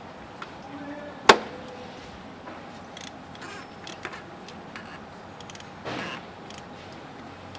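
Hand-tool work on a truck: one loud metallic clank about a second in, a few light tool clicks, and a brief scraping rustle about six seconds in, over a faint steady hum.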